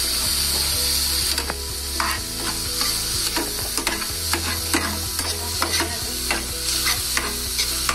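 Chopped onion, tomato, green chilli and garlic sizzling in desi ghee in a metal frying pan, stirred with a metal spatula that scrapes and clicks against the pan again and again.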